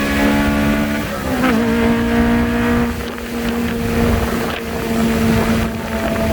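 Honda four-cylinder sports car engine pulling hard with its pitch climbing, then a quick upshift about a second in drops the revs, and it holds a steady pitch under throttle, with wind and road noise.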